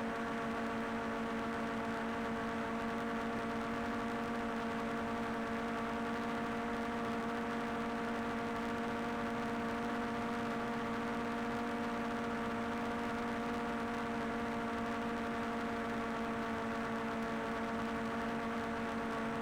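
Steady, even hum of a hovering camera drone's propellers: several fixed tones holding the same pitch throughout, with no rumble or blast.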